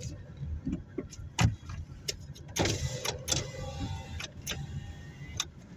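Car cabin while driving: low road and engine rumble with scattered clicks and knocks, the loudest about a second and a half in.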